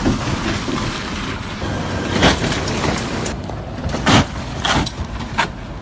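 Steady vehicle noise with a run of sharp knocks and bangs, about five of them spread over the second half.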